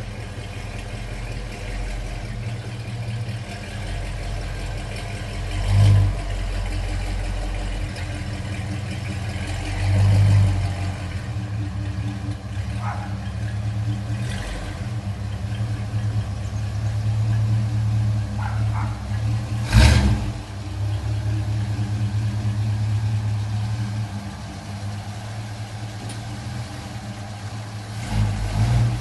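Ford Maverick's 302 V8 idling through a custom exhaust with short headers, an X-pipe and two mufflers, blipped a few times: short revs about six and ten seconds in and a sharp, loud burst about twenty seconds in.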